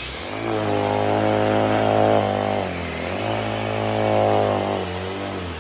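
Dyson V11 Animal cordless vacuum, used handheld without the wand, switched on twice. Each time the motor spins up, runs steadily for about two and a half seconds, then winds down and falls in pitch when the trigger is released.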